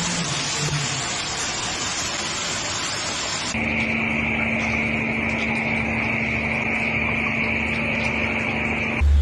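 A steady rushing noise. A few seconds in, it gives way abruptly to a steady mechanical drone with a constant high whine over a low hum.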